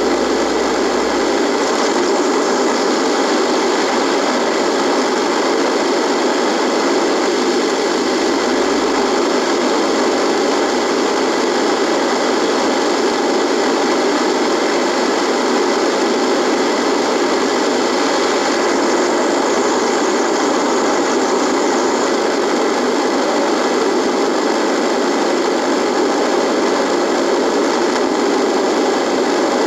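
Radio static: a steady buzzing hiss that holds at an even level throughout, with small shifts in texture about two seconds in and again around two-thirds of the way through.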